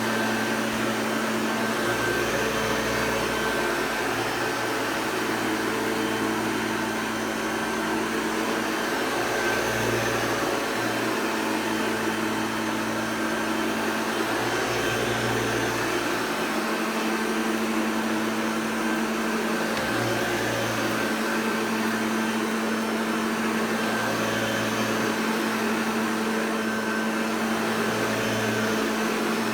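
Hoover Junior Exclusive U1104 upright vacuum cleaner running steadily, its motor giving a continuous hum with a steady whine. The deepest part of the hum swells and fades every few seconds.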